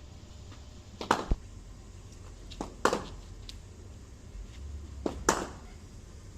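A BDM willow cricket bat striking a cricket ball three times, about two seconds apart: sharp knocks with a short ring, each with a softer tap just before it.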